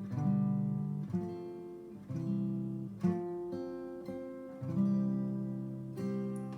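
Acoustic guitar playing an instrumental passage of slow chords, each struck and left to ring and fade, about one a second.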